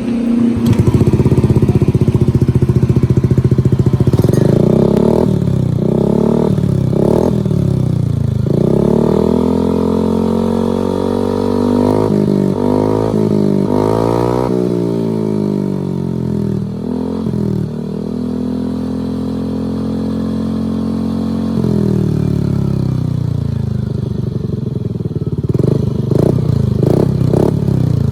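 Yamaha Lexi 125 scooter's single-cylinder engine heard through its exhaust, idling and being revved. There are short throttle blips, then longer revs whose pitch rises and falls, a steadily held engine speed, and near the end a drop back to an uneven idle.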